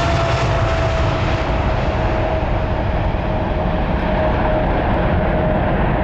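Jet airliner's engines passing close by and moving away: a loud, steady rush with a whining tone that slowly drops in pitch, while the hiss at the top gradually fades.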